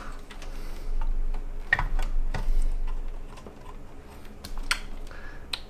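Scattered light clicks, taps and a few dull knocks from computer parts and case panels being handled during a PC build.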